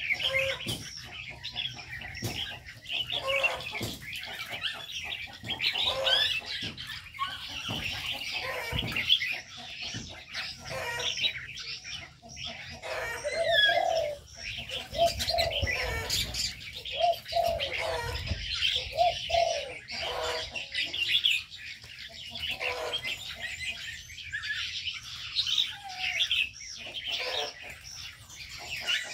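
Mixed small aviary birds chirping continuously, with doves cooing in a series of low repeated notes from about 14 to 20 seconds in.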